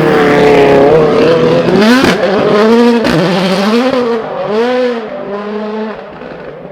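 A 2017 World Rally Car's turbocharged 1.6-litre four-cylinder engine driven hard through a stage section, its pitch rising and falling several times as the throttle comes on and off through the corners. The engine fades over the last couple of seconds as the car pulls away.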